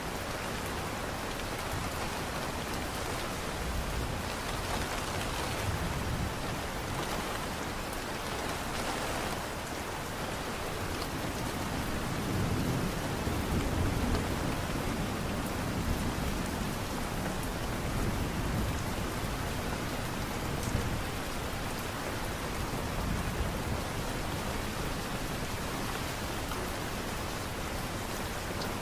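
Light rain ambience, an even steady hiss of falling rain, with a low rumble swelling through the middle.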